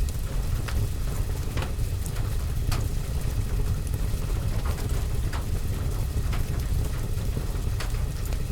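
Rain on a window and roof with a deep, steady rumble, over which a wood fire in a fireplace crackles and pops about once a second.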